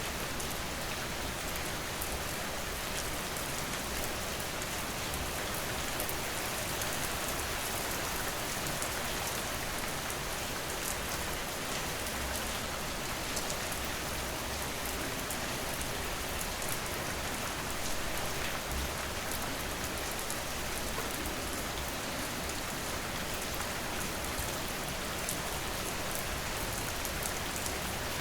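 Steady rain falling on a surface, an even hiss with scattered drop ticks up high and no change in strength.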